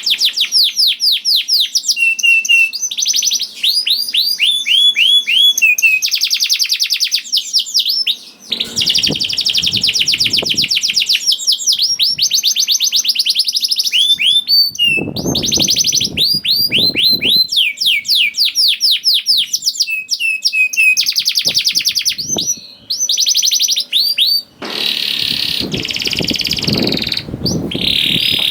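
Domestic canary singing a long, rapid trilling song: runs of fast, evenly repeated sweeping notes that change to new note types every second or two, broken by short pauses. A lower rushing noise sits under the song in a few stretches.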